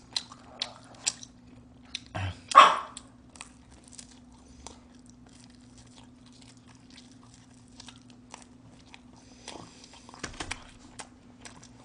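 Close-up eating sounds of a person chewing and biting pizza: scattered wet mouth clicks and smacks. One short, loud sharp sound comes about two and a half seconds in, over a faint steady hum.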